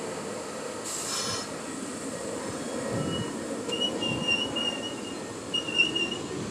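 R46 subway train wheels squealing on the rails in short, high-pitched bursts from about three seconds in, over a steady rumble that grows louder toward the end.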